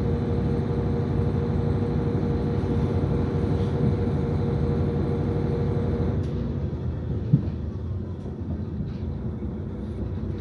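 KiHa 40 diesel railcar's engine running under power with a steady hum, heard from inside the car; about six seconds in the engine note drops away as the train eases off and rolls on quieter, with a single sharp knock a second later.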